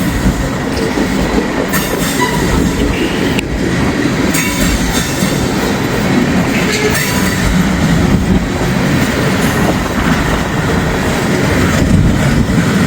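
Freight train cars rolling past, with a steady heavy rumble and wheels clicking over the rail joints. Strong wind buffets the microphone.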